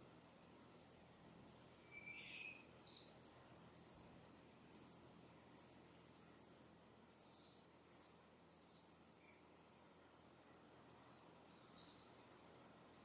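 Distant songbird giving a quick string of short, high notes, a little more than one a second, then one longer trill about two-thirds of the way through, with a lower note from another bird early on. A faint steady hiss of breeze lies underneath.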